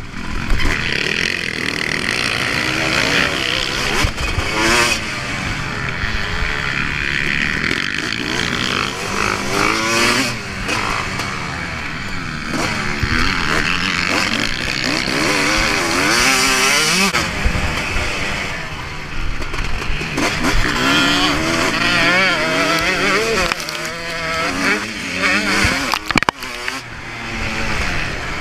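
Motocross bike engine revving up and down continuously as it is ridden around a dirt track, pitch rising and dropping with each throttle change, over rushing wind noise on the microphone.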